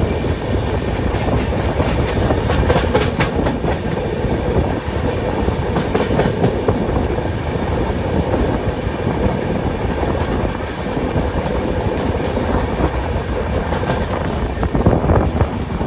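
Ashokapuram Express train running at speed: a steady, loud rumble of wheels on the rails, with a few sharp clacks now and then.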